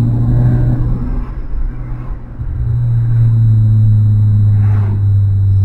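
Proton Saga FLX's four-cylinder engine and road noise droning steadily inside the cabin while driving. The drone eases off about a second and a half in and picks up again about halfway through, as the throttle is lifted and reapplied.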